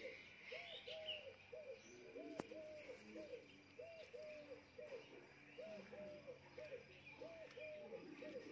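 Dove cooing faintly, a low coo repeated in phrases of about three notes, again and again.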